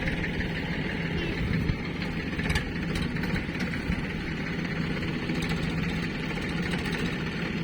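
Heavy diesel engine of the loading machinery running steadily at a low idle, with a few faint clicks over it.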